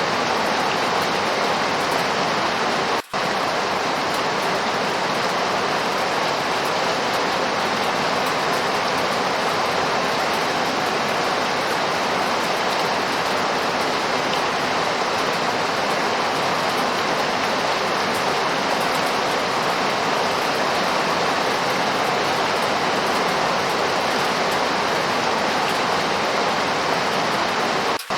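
Steady, even rainfall with no individual drops standing out. The sound cuts out for an instant about three seconds in and again near the end.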